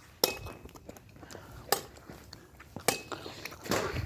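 Someone chewing a hard marshmallow close to the microphone, with a few sharp clicks scattered through.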